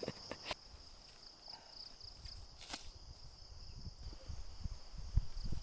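Crickets chirping steadily in a high, pulsing band, with a few faint clicks and low thumps that build toward the end.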